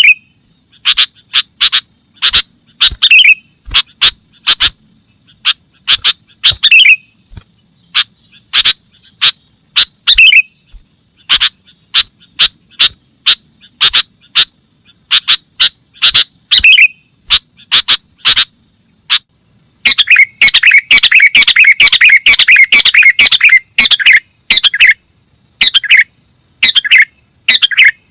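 Sooty-headed bulbul (kutilang) calling in short, sharp notes at irregular intervals, breaking into a dense rapid chatter about two-thirds of the way through. A steady high insect trill runs underneath.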